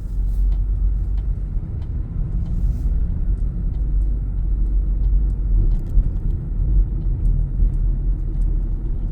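Car driving at low speed, its engine and tyre noise a steady low rumble heard inside the cabin.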